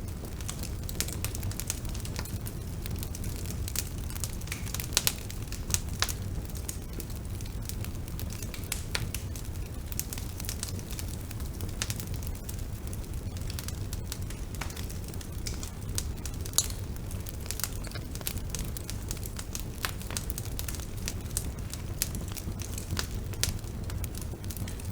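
Bonfire burning: a steady low rumble of flames with frequent irregular crackles and pops. A few louder snaps come about five seconds in and again about two-thirds of the way through.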